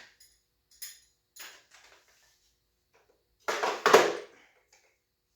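Metal tool clinks of a wrench working a tight bolt on a dirt bike: a few light clinks, then a louder burst of clanks about three and a half seconds in.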